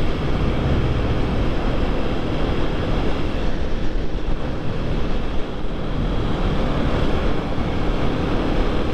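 Supermoto motorcycle riding at a steady speed: wind rushing over the microphone, mixed with the engine's running note and road noise.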